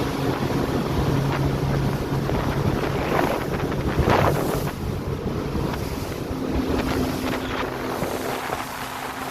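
A tour boat's motor running with a steady low hum, with wind buffeting the microphone and water rushing past the hull. The wind and water noise swells louder about three to four seconds in.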